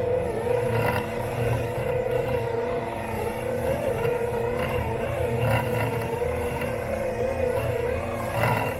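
Robot lawn mower running, heard from on board: a steady electric-motor whine whose pitch wavers slightly, over a rumble from the chassis as it drives across the grass. It gets briefly louder near the end.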